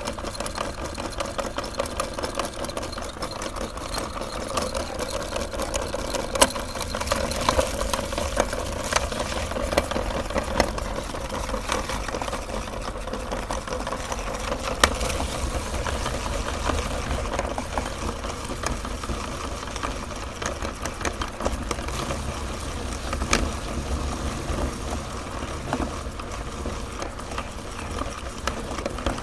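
Electric meat grinder running steadily while grinding mini ice cream cones, its motor humming under a constant crunching, with a few sharper cracks now and then.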